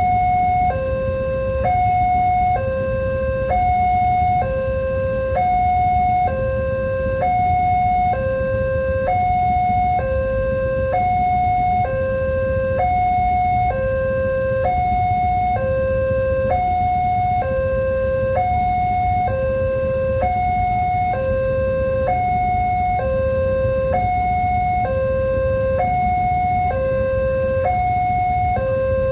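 Railway level-crossing warning alarm sounding a repeating two-tone electronic signal, a high note then a lower note, about one pair every second and a half, with a steady low rumble beneath. The alarm warns of an approaching train.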